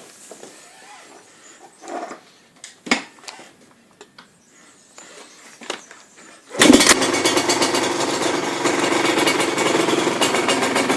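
Husqvarna SM 125 supermotard's two-stroke single with a Scalvini exhaust: a few faint knocks, then about two-thirds of the way in the engine fires suddenly and settles into a steady, fast-pulsing idle.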